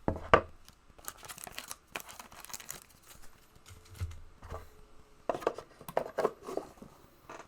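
Trading card packs being torn open, their wrappers crinkling in an uneven string of short tearing and crackling sounds, with one sharp snap just after it starts.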